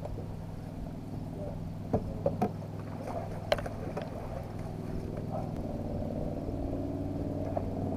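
A boat engine running steadily, with a few sharp knocks about two to three and a half seconds in.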